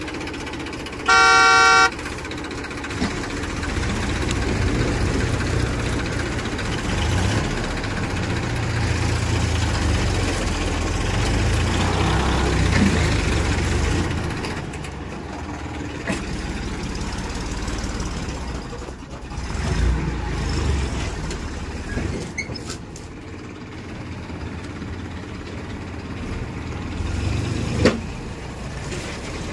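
A vehicle horn blows once for about a second near the start, then a heavy vehicle's engine runs with a low rumble that swells and fades in loudness.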